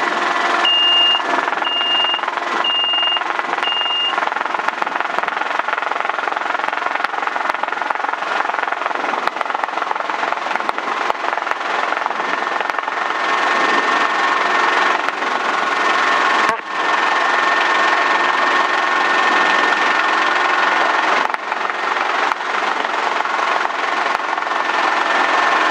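Schweizer S300 CBi helicopter's piston engine and rotors running steadily in flight, with four short high-pitched beeps about a second apart near the start. A little after halfway a steadier whine comes up in the engine noise.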